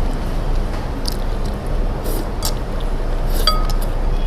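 Tableware clinking once, a short ringing tap about three and a half seconds in, with a few fainter ticks before it. A steady low hum runs underneath.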